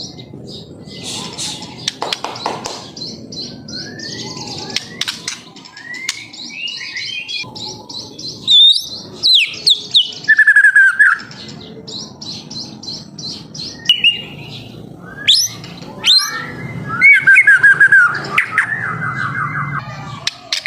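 White-rumped shama singing a varied song of whistles, with fast rattling runs of repeated short notes in the 'trotol' style; the loudest runs come around the middle and again near the end.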